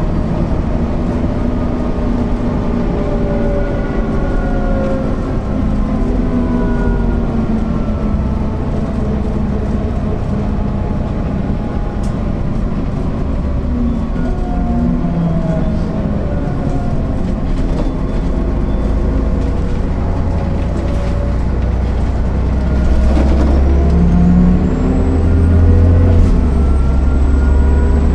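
MAN NL 262 city bus's diesel engine driving through its ZF 5 HP 600 automatic gearbox, the engine note rising and falling several times as it pulls away and changes gear. It gets louder from a few seconds past the middle, and a thin high whine rises and then holds near the end.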